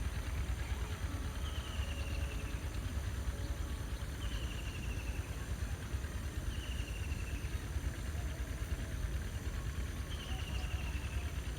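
Field ambience: a low rumble of wind on the microphone under a steady high insect drone, with a short falling trilled call repeating five times, every two to three seconds.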